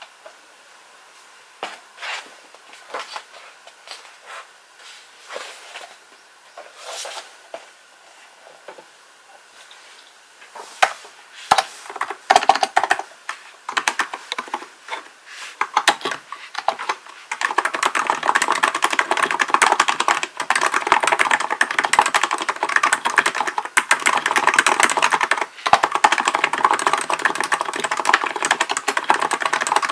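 Typing on a Hansung GK898B electrostatic capacitive (Topre-style) keyboard: scattered keystrokes for the first half, picking up a little past the middle into steady, fast continuous typing.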